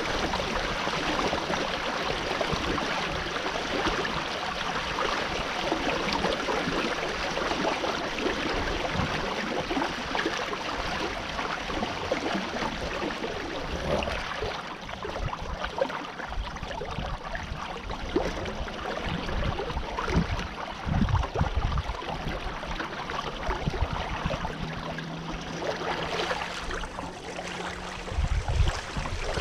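Water rushing and lapping along a sailing canoe's hull, a steady hiss, with irregular low buffeting thumps that come more often in the second half.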